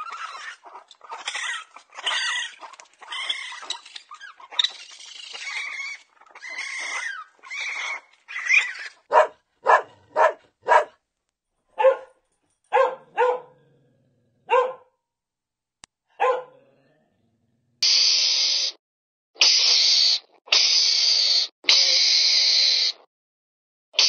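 Raccoons chittering and whining in quick, up-and-down calls, then a small dog giving short sharp yips and barks about a second apart, then four harsh hissing bursts of about a second each.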